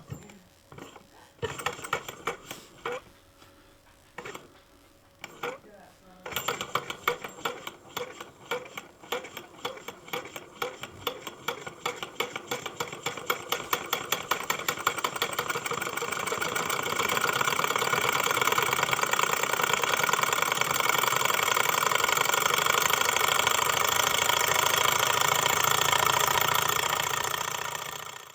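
Model Stirling engine running up to speed: a few scattered clicks, then a rhythmic knocking from the piston and linkage that quickens steadily until, about halfway through, it merges into a fast, steady whir.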